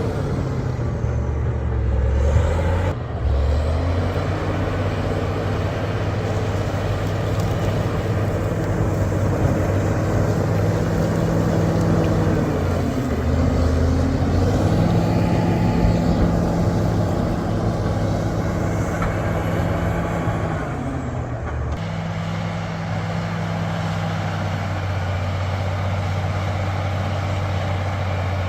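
Bulldozer's heavy diesel engine running under load, its note dropping and rising again a few times as the machine works.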